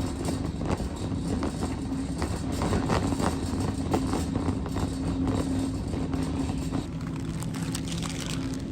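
Steady low mechanical hum with a constant tone, broken by scattered clicks and knocks.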